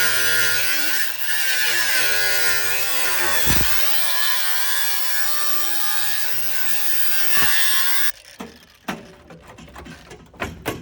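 Electric power tool cutting into car-body sheet metal: a high-speed motor whine over a hiss. The pitch sags as the tool loads up, with a deep dip about three and a half seconds in. It cuts off sharply about eight seconds in, leaving a few light clicks and knocks.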